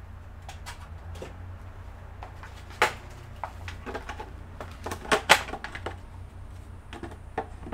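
Scattered sharp clicks and knocks of hard objects being handled on a workbench, the loudest about three and five seconds in, over a steady low hum.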